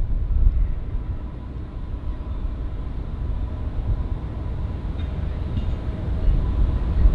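Low rumble of distant jet airliner engines, with wind on the microphone. It eases to a lull midway and builds again near the end, with a faint steady whine above it.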